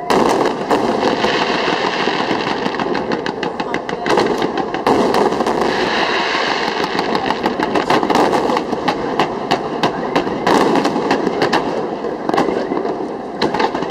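Fireworks display: aerial shells and fan-shaped volleys of comets going off in dense, rapid, overlapping bangs and crackling without a break.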